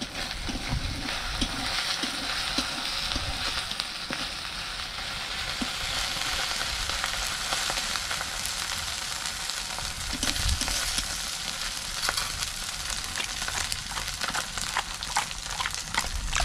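Chopped onion frying and sizzling in oil in a black iron kadai, stirred with a steel spatula. The spatula's scraping and clicking against the pan grows busier in the second half.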